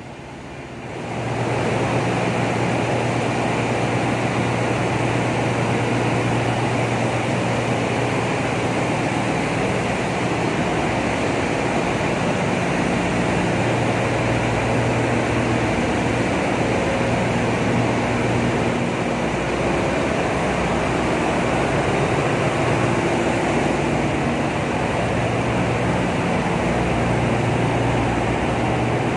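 Engine-room machinery of a very large crude carrier running: a loud, steady roar of noise over a low hum. It swells over the first second or two, then holds level.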